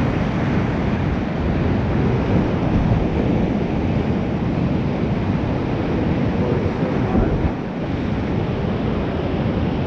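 Steady rush of whitewater from a river waterfall.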